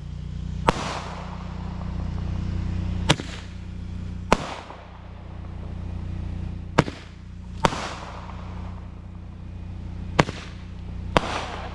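Handheld fireworks firing: about seven sharp pops at irregular intervals, several trailed by a short hiss, over a steady low hum.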